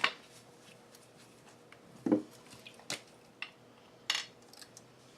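Spray bottle spritzing a paper craft tag: quick hissing sprays at the start and again about four seconds in, with light clicks of handling between and a short low sound about two seconds in.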